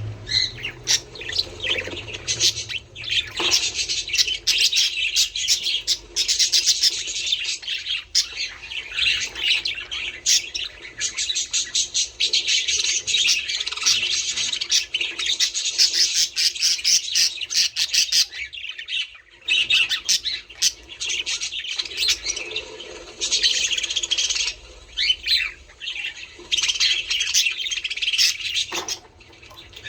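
A flock of budgerigars chirping and chattering in quick, overlapping calls, with brief lulls about two-thirds of the way through and near the end.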